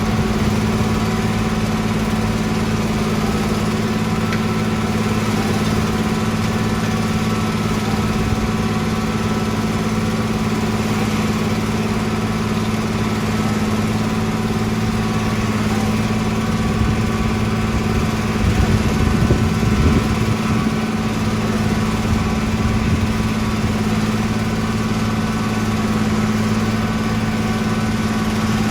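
Engine of a piece of road construction machinery running steadily at a constant speed, with a brief surge about two-thirds of the way through.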